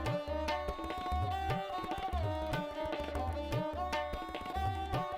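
Background music with a tabla-like drum beat, about two low hits a second, under held melodic tones.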